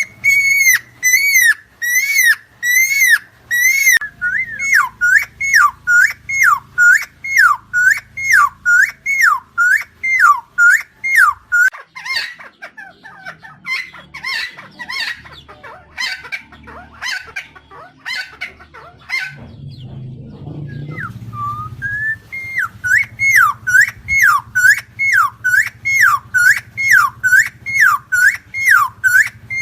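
Helmeted friarbird calling in a fast, even run of loud whistled notes, about two to three a second, each note swooping down in pitch. The run thins out past the middle, breaks off briefly, then starts again.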